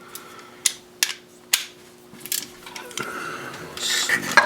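Hand tools clicking and clinking against metal, four or five sharp clicks, then a short stretch of scraping and rustling near the end.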